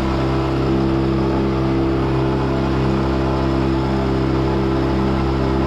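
Motorboat engine running at a steady speed, an even low drone with no change in pitch.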